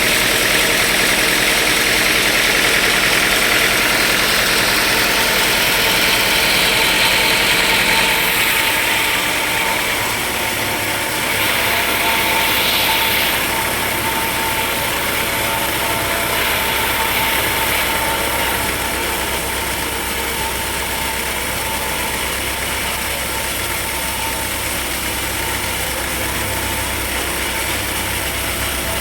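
Sawmill machinery running steadily with an engine-like hum. A hiss in the upper range fades about eight to ten seconds in, with a shorter rise a few seconds later.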